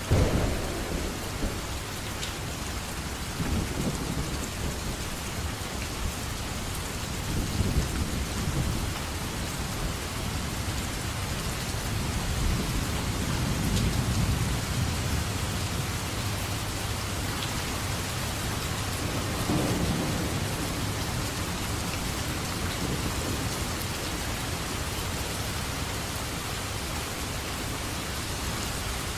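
Steady heavy rain with thunder rolling through it several times, the first and loudest rumble right at the start.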